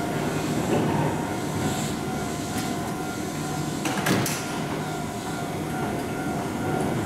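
Keihan electric train running at the station platform: a steady rumble of wheels and motors, with a sharp clank about four seconds in.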